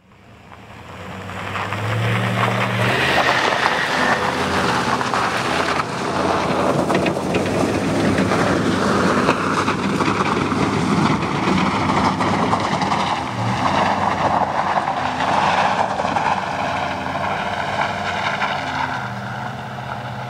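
Motor vehicle engine running, fading in over the first two seconds, with its pitch shifting up and down as it changes speed.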